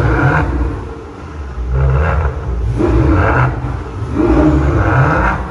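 Sports car engine revved hard several times, about four blips, each rising and falling back within a second or so.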